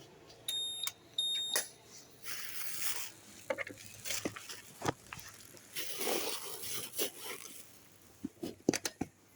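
Two short, high electronic beeps, each under half a second, a fraction of a second apart near the start, followed by scattered rustling and clicks.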